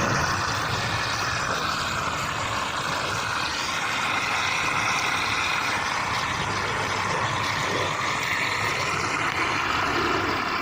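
Steady distant engine noise with no clear rhythm or sharp events.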